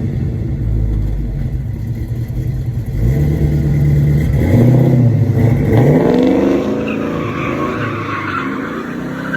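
A 1980 Chevrolet C10 pickup's engine running and being revved in several short blips, each rising in pitch and falling back, with the steadiest running early and the blips clustered a few seconds in.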